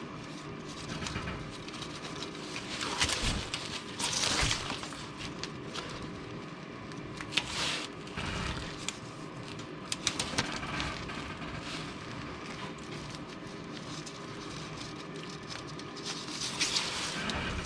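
Handling noises from work on the exhaust pipe: rustling and scraping in bursts every few seconds, with a few sharp clicks, over a low steady hum.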